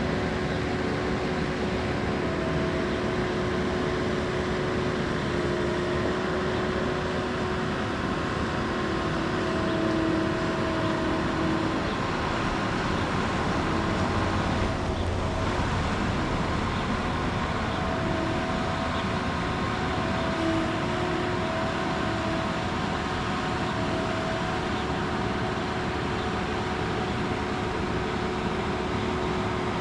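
Bobcat 773 skid-steer loader's diesel engine running steadily as the machine is driven onto a trailer. Several steady tones shift in pitch now and then.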